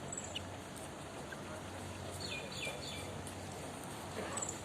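Helmeted guineafowl calling: three short, quick downward calls a little past halfway, with a few fainter high chirps, over steady background noise.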